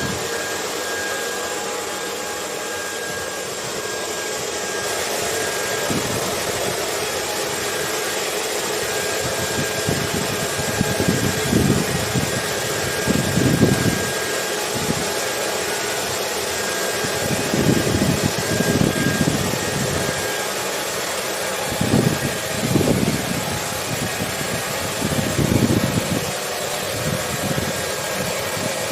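Steady hair dryer blowing, an even rush of air with a faint high whine, mixed with ocean wind whose low gusts swell up irregularly every few seconds from about ten seconds in.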